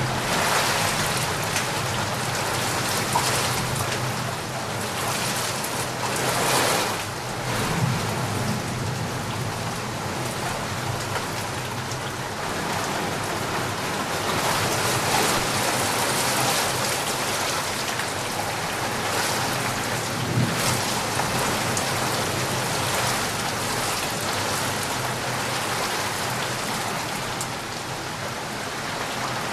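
Heavy rain falling steadily, a dense even hiss that swells slightly at times.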